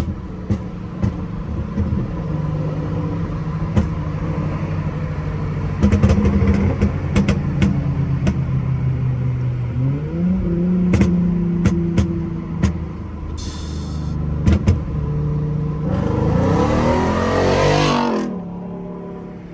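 Dodge Charger SXT's 3.6-litre V6 with a pop-and-burble tune, driving: a steady engine drone broken by scattered exhaust pops and crackles, a rise in revs about ten seconds in, and a hard rising rev near the end that cuts off suddenly.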